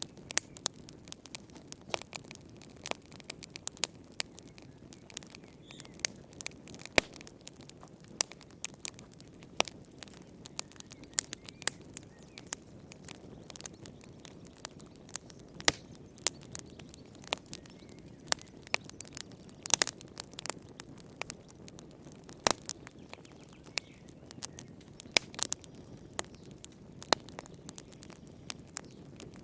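Wood fire in a fireplace crackling, with irregular sharp pops and snaps over a low steady hiss of the flames.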